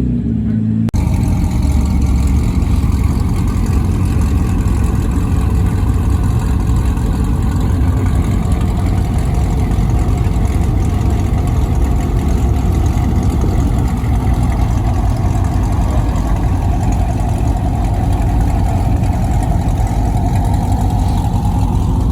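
Car engine running steadily with a loud, low rumble. The sound changes abruptly about a second in, after which the rumble holds with a slight dip and rise in pitch near the end.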